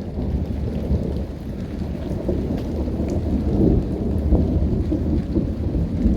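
Continuous rumbling thunder, swelling a little around the middle, with rain falling steadily.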